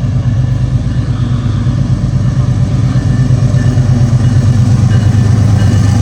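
Diesel locomotives of an approaching BNSF freight train working under power: a deep, steady engine drone that grows louder.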